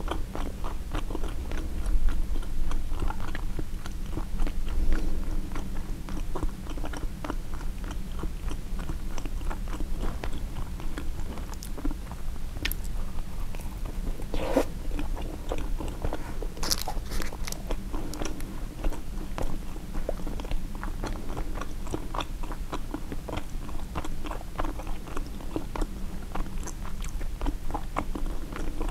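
Close-miked chewing and biting of a turkey sausage, egg and cheese bagel sandwich: a steady run of small wet mouth clicks and crunches, with a few sharper clicks near the middle, over a low steady hum.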